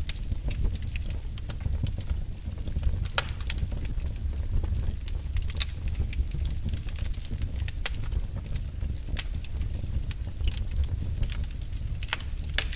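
Fire burning in a fireplace: a steady low rumble of flames with scattered sharp crackles and pops, a few louder pops about three seconds in, around five and a half seconds, and near the end.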